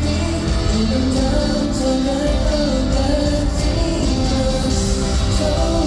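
K-pop song performed live at a concert: a sung vocal line over a loud band track with a steady beat.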